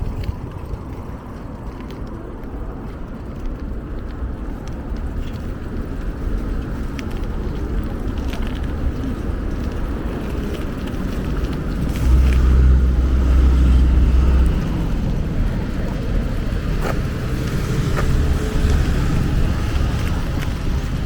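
Low rumble of wind buffeting the microphone while riding a bicycle, louder for a couple of seconds about twelve seconds in, with a few light clicks.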